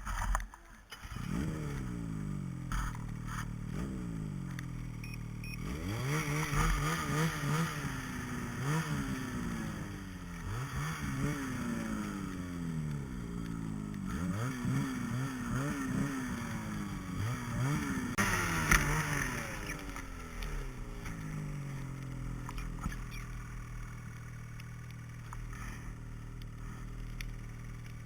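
A vehicle engine starts up and runs, revving up and down over and over with its pitch rising and falling, then settles into a steady run for the last several seconds.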